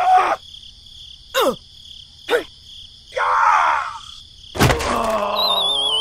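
Cartoon sound effects: two quick downward swishes and a short squeaky chatter, then a thump about four and a half seconds in, followed by a wavering cartoon groan and a falling, warbling whistle.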